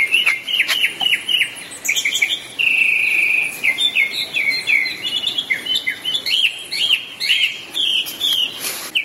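A songbird singing in quick runs of short, looping chirps, with one longer held note about two and a half seconds in.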